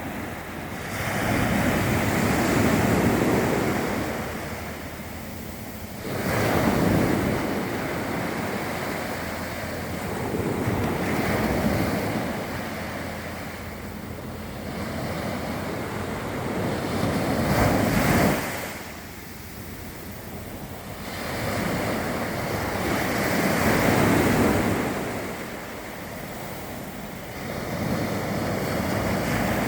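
Sea waves surging and breaking on the shore, the rush of water swelling and falling away every five seconds or so, with wind buffeting the microphone.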